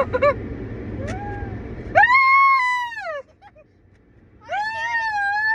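A child wailing in fright: two long, high cries, each held about a second and falling away at the end. Under the first, a low steady rumble of car wash machinery stops about two seconds in.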